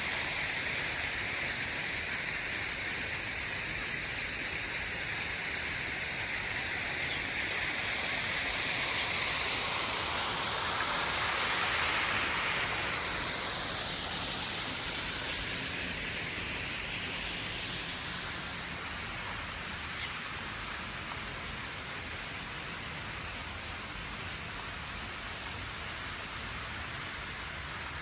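Steady rush of flowing water with a slowly shifting hiss; it grows somewhat quieter a little past halfway through.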